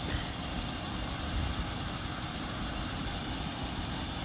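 Vehicle engine running steadily, a low even rumble with no distinct events.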